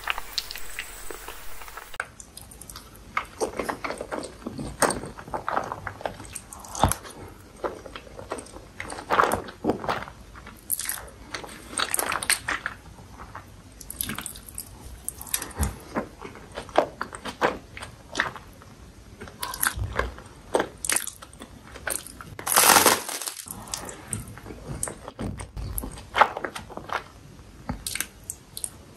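Close-miked eating of creamy alfredo pasta: wet chewing, smacking and slurping sounds coming irregularly, with one louder, longer crunchy bite about two-thirds of the way through.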